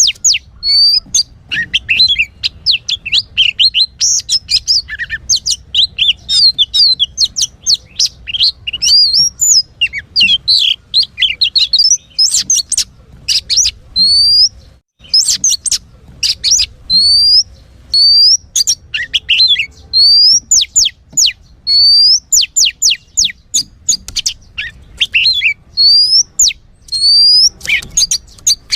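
Oriental magpie-robin (kacer) song: fast, unbroken runs of varied whistles and chirps, with a rising whistled note that comes back again and again. There is a very short break about halfway through.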